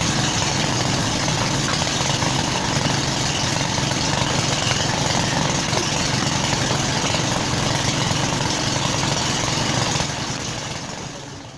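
Engine running steadily, a low hum under a loud hiss, fading out over the last second or so.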